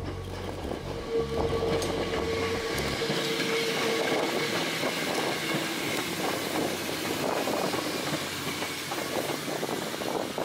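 Hakone Tozan Railway electric train running past close by, its wheels clattering over the rail joints. A steady high tone runs through the first few seconds.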